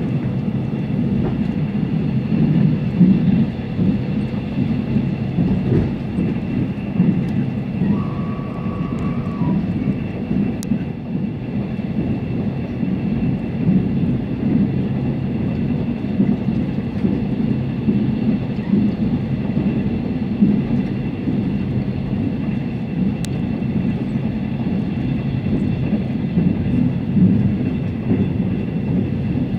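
Steady rumble of a moving passenger train heard from inside the carriage, with a faint steady whine above it. A brief faint tone sounds about eight seconds in.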